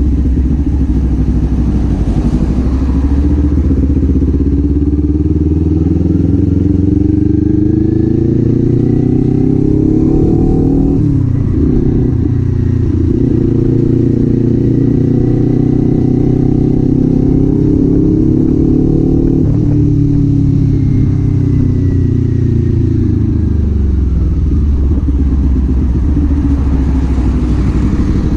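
Kawasaki Z400 parallel-twin engine under way. The revs climb steadily and dip sharply at a gear change about eleven seconds in, then climb again. From about twenty seconds in they fall away steadily as the throttle closes.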